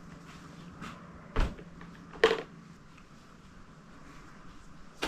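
Two sharp knocks about a second apart, the second the louder, with a faint click just before them: engine parts being handled and set down on a workbench.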